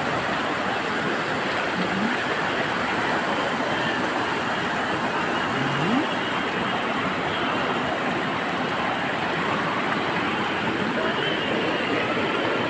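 Angat River water flowing strongly over its bed: a steady, even sound of moving water.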